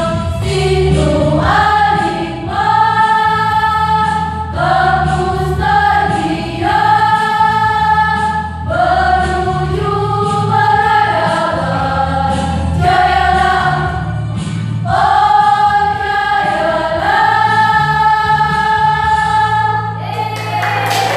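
Choir singing a song in rehearsal, several voices together on long held notes that step from pitch to pitch over a steady low accompaniment.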